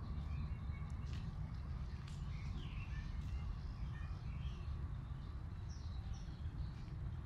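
Small birds chirping in short, scattered calls among trees, over a steady low rumble.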